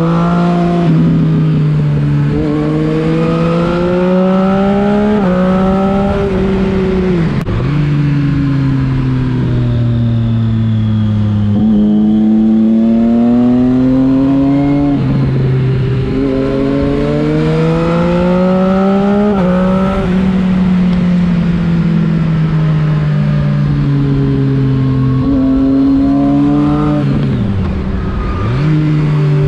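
Triumph Street Triple 675 Rx inline three-cylinder motorcycle engine under way: it revs up and shifts up through the gears with quick drops in pitch, slows with the revs falling, then pulls up through the gears again. Near the end the pitch dips and comes back up.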